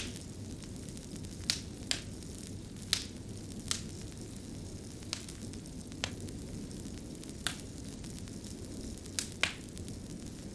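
Wood fire crackling: sharp, irregular pops and snaps, about one a second, over a steady low rumble of burning.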